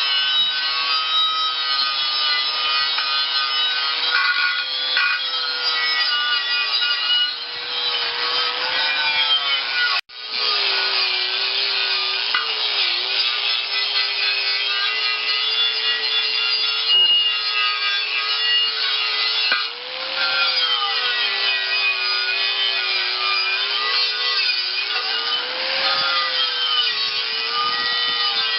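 Motor-driven wire brush scouring rust and old paint off a steel tractor wheel rim, a steady harsh scraping over a motor hum whose pitch sags and recovers as the brush is pressed on. It cuts out for a moment about ten seconds in, then carries on.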